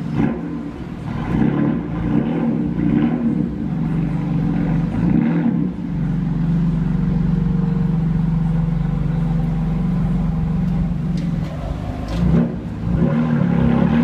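Car engine revving in repeated rises and falls, then holding a steady note for about six seconds before revving again near the end.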